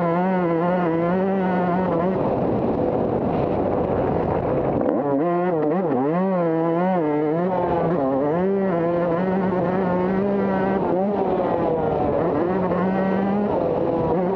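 Motocross bike engine heard close up from on board, revving up and down as the throttle is opened and rolled off, with a quick run of rises and falls about five to seven seconds in.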